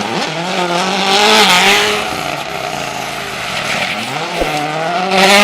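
Race car sound effect: an engine note that holds steady with small dips in pitch, and hissing tyre squeal that swells about a second in and again near the end.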